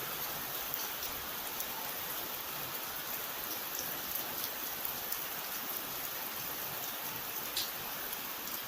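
Steady rain falling, a dense even hiss with scattered sharper drop splashes.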